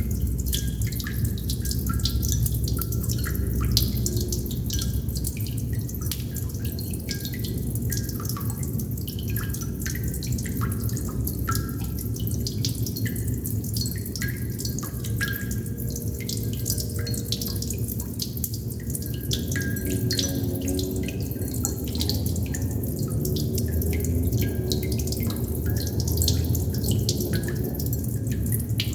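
Water droplets dripping and plinking irregularly, several drops a second, some with a short ringing pitch, over a steady low rumble.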